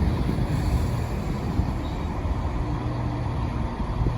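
Class 170 Turbostar diesel multiple unit idling at the platform, its underfloor diesel engines giving a steady low rumble and hum.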